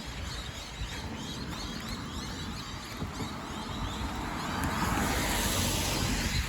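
A car passing on a wet road, its tyre hiss swelling over the last couple of seconds, over a steady low rumble.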